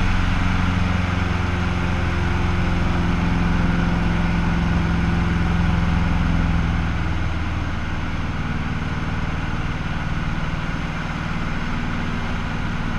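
Cessna 150L's four-cylinder Continental O-200 engine and propeller running steadily; the engine note drops slightly, a little quieter and lower, about seven seconds in.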